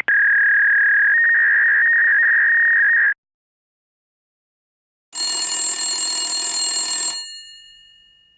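Telephone ringtone sound effects: a steady high electronic phone tone that starts warbling about a second in and cuts off after about three seconds. After a pause of about two seconds comes a bright bell-like ring for about two seconds that dies away.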